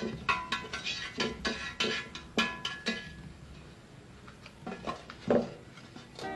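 A series of light clinks and taps with short ringing, several in quick succession over the first three seconds, then a few more near the end.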